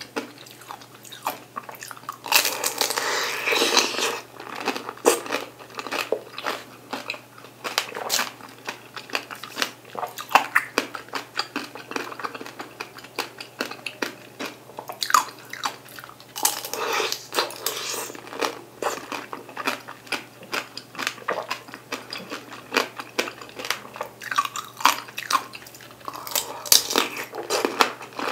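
Close-miked biting and chewing of sugar-coated tangerine tanghulu, the hard candy shell crackling and crunching between the teeth. Denser bursts of crunching come about two seconds in, around the middle and near the end.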